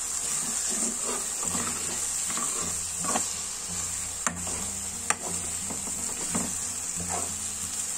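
Thick spiced tomato masala sizzling in a pan while a spoon stirs and scrapes it, with a few sharp clinks of the spoon against the pan. The masala is frying down until it is cooked.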